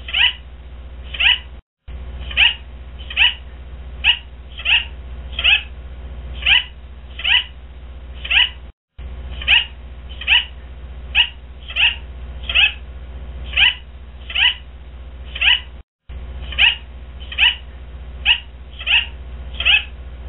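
A bird's short, high calls repeated steadily about once or twice a second, each one falling in pitch, with brief drop-outs about every seven seconds.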